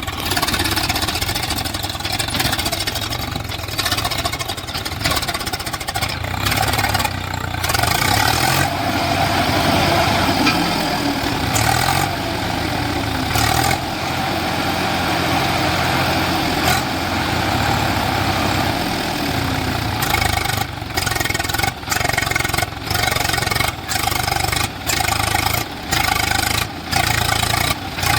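Tractor diesel engine running under heavy load and revving up and down as the tractor strains to drive out of deep sand where it is stuck. In the last several seconds the sound dips briefly about once a second.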